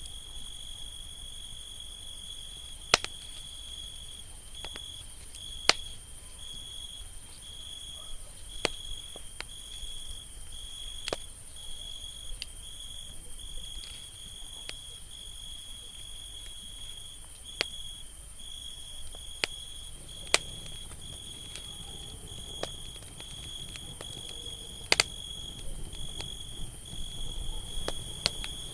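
Campfire crackling, with scattered sharp pops from the burning wood, over a steady high-pitched insect trill that breaks off briefly about once a second. A cluster of small crackles comes near the end.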